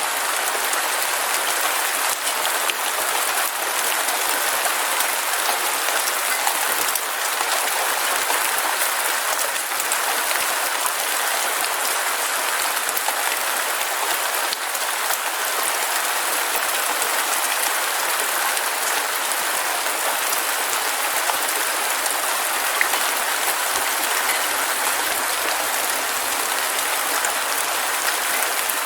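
Heavy rain falling steadily, a dense even patter of drops with no thunder.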